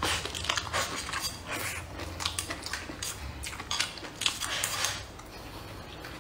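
Close-miked eating: biting and chewing mouthfuls of fried sausage and vegetables, a quick run of wet smacks and crisp clicks that gets sparser and quieter near the end.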